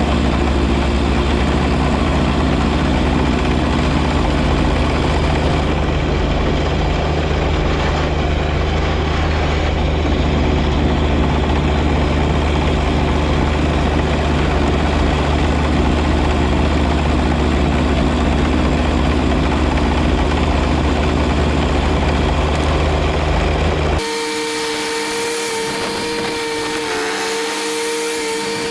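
Three-cylinder diesel engine of a John Deere 1025R compact tractor running steadily at working speed. About 24 seconds in, it cuts off abruptly to a steady, high-pitched whine.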